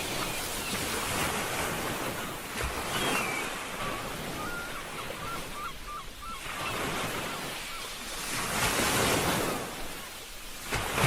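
Ocean waves breaking and washing on the shore, swelling and ebbing, with the biggest surge about eight to nine and a half seconds in.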